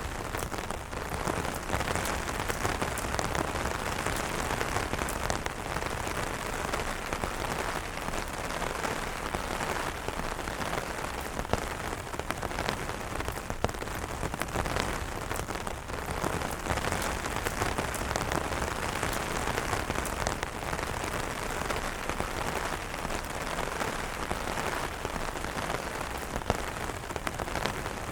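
Steady rain falling on umbrellas: an even hiss dotted with many sharp, separate drop taps on the taut fabric.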